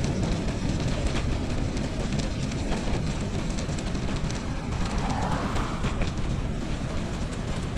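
Wind rumbling across the microphone of a bicycle rider on a winter trail, with scattered clicks and rattles and a brighter hiss that comes in about five seconds in.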